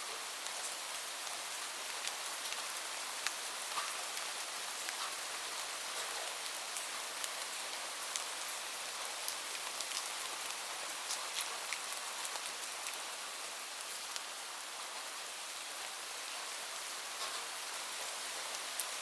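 Steady rain, an even hiss with many separate drops ticking on a surface.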